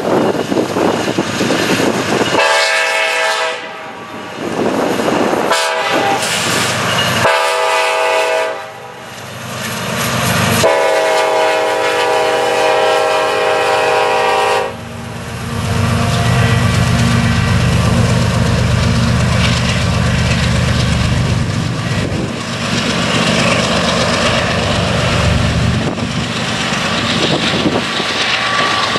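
A Nathan K5LLA five-chime horn on a BNSF SD70ACe sounds four blasts at a grade crossing, the last held about four seconds. After the horn, the locomotives' diesel engines rumble past, followed by coal hoppers rolling over the rails with a clickety-clack.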